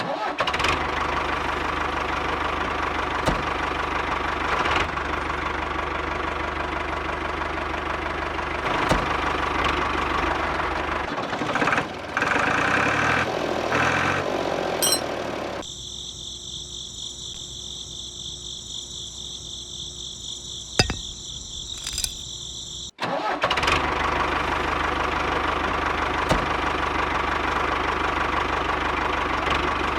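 A small motor running steadily. About halfway through, the sound drops back for several seconds to a quieter, high steady whine, then the motor sound returns.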